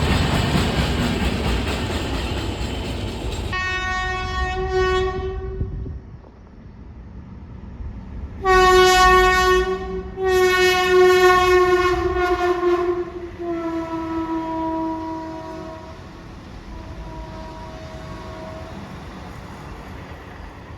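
A train rumbles past, then a locomotive horn sounds five blasts. The later blasts are fainter and slightly lower in pitch, as the train moves away.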